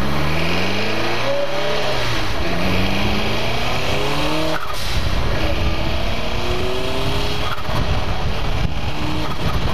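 Turbocharged car engine accelerating hard through the gears, its pitch climbing in each gear and dropping back at shifts about one and a half, four and a half and seven and a half seconds in, with wind rushing over the microphone.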